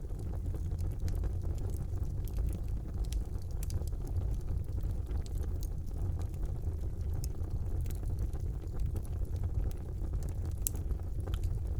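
Fire burning in a fireplace, crackling: a steady low rumble with many scattered sharp pops, one louder pop near the end.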